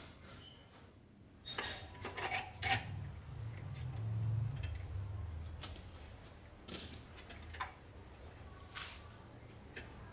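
Small metal carburetor parts clinking and tapping as they are handled, in scattered sharp clicks with a cluster about two seconds in, and a low rumble for a few seconds around the middle.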